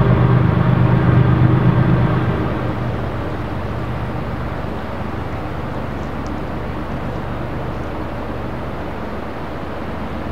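Freight train's diesel locomotives running with a steady engine drone that fades after the first two seconds, leaving an even rumbling noise.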